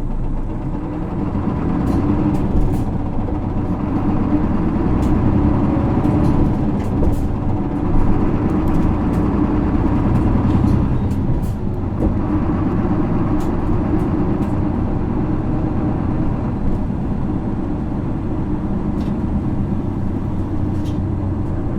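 Onboard running sound of a 2009 Isuzu Erga city bus (PKG-LV234L2) with its 6HK1 six-cylinder diesel under way, the engine note getting louder about two seconds in. Light clicks and rattles from the cabin fittings are scattered through it.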